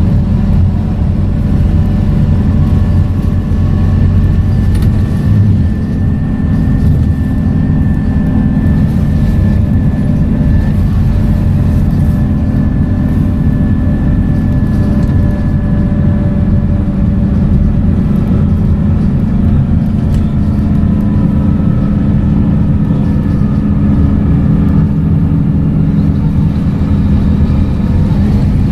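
Scania K230UB bus's five-cylinder diesel engine and ZF automatic gearbox running while driving: a steady low engine drone with a faint whine whose pitch slowly drifts up and down.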